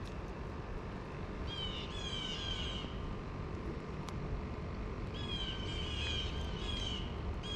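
Songbird calling in two runs of short, downward-slurring notes, one about a second and a half in and another from about five seconds, over a steady background hiss.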